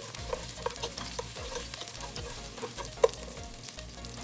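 Chopped onion sizzling in hot cooking oil while being stirred, the utensil clicking against the pan, with one sharp knock about three seconds in.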